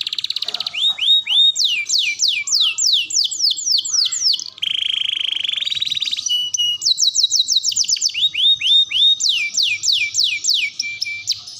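Domestic canary singing: a fast trill, then runs of whistled notes sweeping down in pitch at about four a second. About halfway through, a buzzy rattle and a short held note break the runs before the sweeps return.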